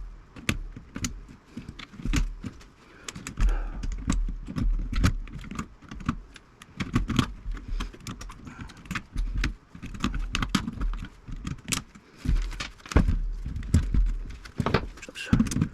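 Hand tools working inside an old metal radio chassis: wire cutters snipping short wires, with irregular sharp clicks and clinks of metal on metal and low knocks from handling the chassis.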